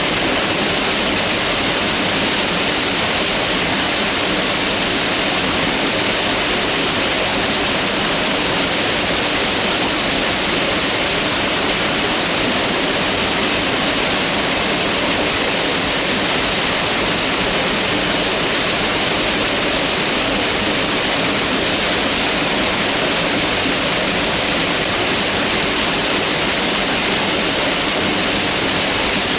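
Mountain river rushing steadily, a constant loud wash of running water.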